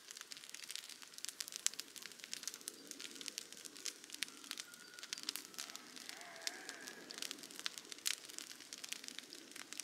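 Wood campfire crackling, with frequent sharp snaps throughout. A faint bird call sounds briefly about six and a half seconds in.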